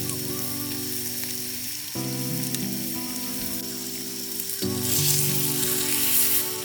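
Beef steak sizzling in a skillet over a campfire, the hiss growing louder about five seconds in, over background music.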